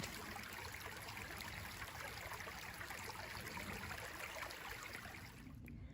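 A small stream running steadily over rocks and through fallen branches. The water sound fades down just before the end.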